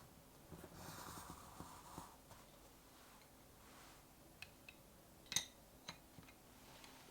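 Faint crackling fire with a few sharp, scattered pops, the loudest about five seconds in, over a soft steady hiss.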